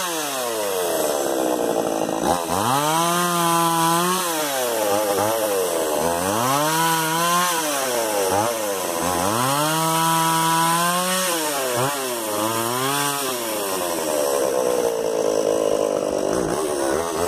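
BMT 52 A two-stroke chainsaw engine revved up from idle and let back down four times, held at high revs for a second or two each time, the last rev shorter, then dropping back to idle.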